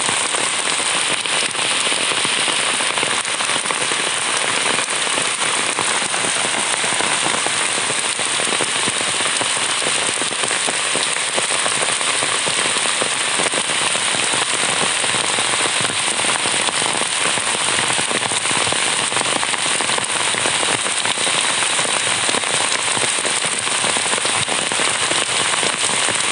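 Heavy rain falling steadily, a dense hiss of drops striking water and wet ground.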